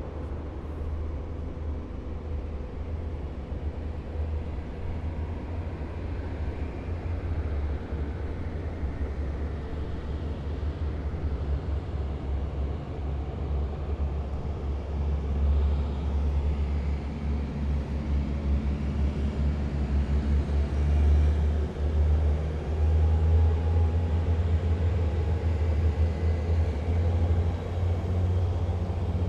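Heavy military vehicles driving past in a column, a deep engine rumble that grows louder through the second half, with faint steady whining tones on top.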